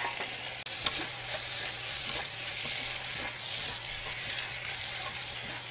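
Boiled pork-skin strips sizzling in a wok of chili-paste sauce while they are stirred and tossed with wooden utensils, a steady frying hiss with a sharp click about a second in.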